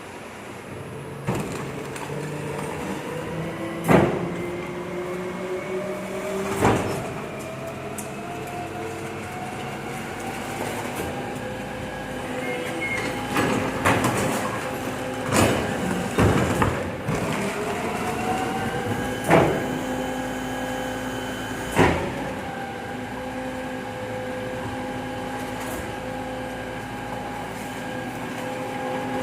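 Volvo FE 300 recycling truck's diesel engine running, its revs climbing slowly for about fifteen seconds and then holding steady, with about seven sharp clanks and bangs over the top.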